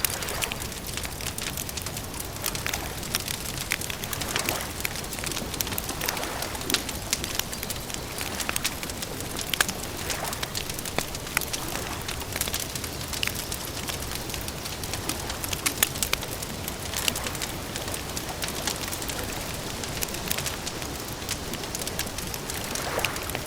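Campfire crackling: a dense scatter of sharp pops and snaps over a steady hiss, with a bird cooing now and then.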